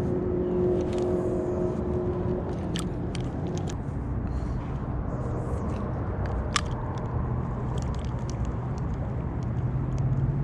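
Steady low mechanical hum and rumble with a few held tones, with scattered small clicks and ticks through it.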